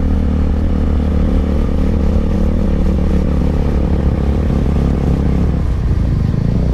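Benelli TNT25 single-cylinder motorcycle engine running steadily while riding, with road and wind noise; the engine note shifts a little near the end.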